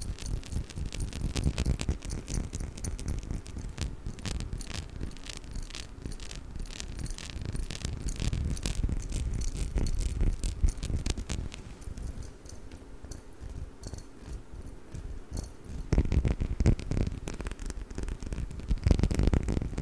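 Close-miked tapping and handling of a glass perfume bottle: many quick taps and clicks over a low handling noise, sparser for a few seconds in the middle and busier again near the end.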